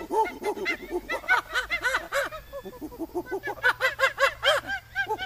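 Monkey chattering: a rapid run of short, arching calls, about four or five a second, in a laughing, excited rhythm.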